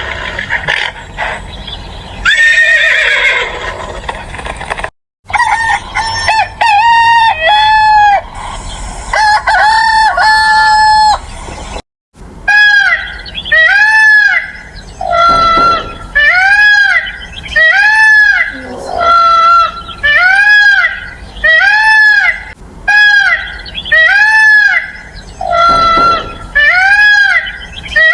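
Chickens calling: a run of short, arching squawking calls repeated about once a second, in three stretches broken by two abrupt cuts.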